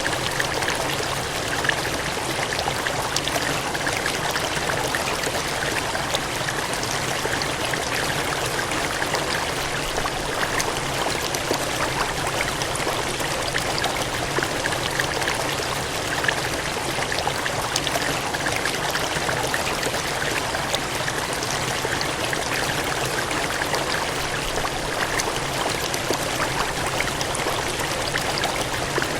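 Water gushing and splashing in a steady, unbroken rush, with fine droplet splashes throughout.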